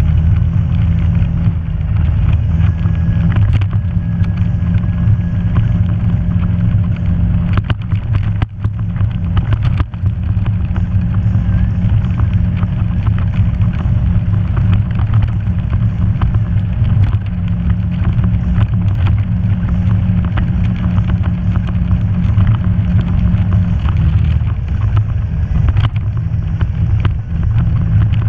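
Off-road vehicle engine running in a steady low drone while driving a trail, with frequent short knocks and rattles throughout.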